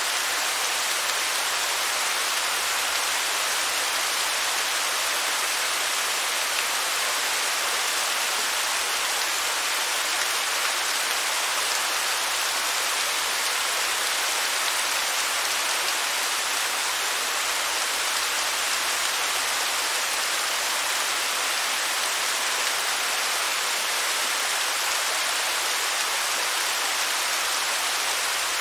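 Waterfall: a steady, unbroken rush of falling water, an even hiss with little low rumble.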